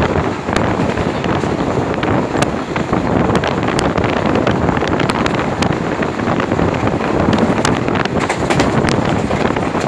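Wind rushing over the microphone at the open window of a moving passenger train, over the steady rumble of the train running on the rails, with scattered sharp clicks.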